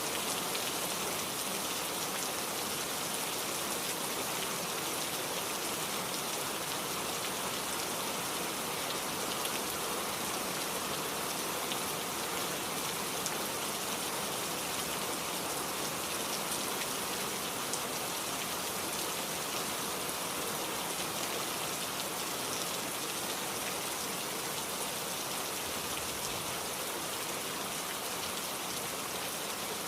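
Heavy rain falling steadily, an even hiss of rain on surfaces with fine scattered drop ticks, unchanging throughout.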